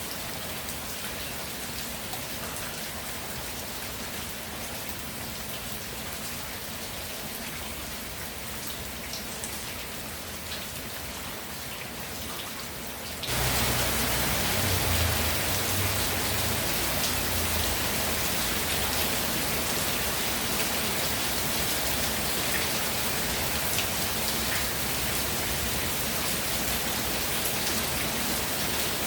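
Steady rain falling, a dense even patter. About 13 seconds in it suddenly becomes louder, with a brief low rumble just after.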